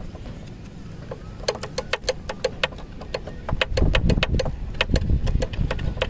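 Loose inner disc brake pad of a Bajaj Discover 150 rattling in its caliper as the bike is jostled. It is a rapid run of sharp metallic clicks that starts about a second and a half in and is heaviest in the middle, with some low knocking. The owner puts it down to a worn plate behind the pad.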